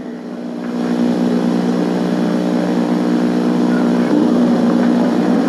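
A steady droning hum of several held tones that swells in over the first second and then holds.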